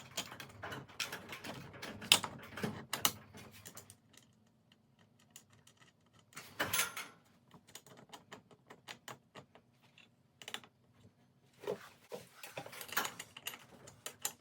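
Metal wrenches clicking and clinking on nuts and bolts while garage door torsion springs are bolted to the center bracket, in irregular bursts with short pauses.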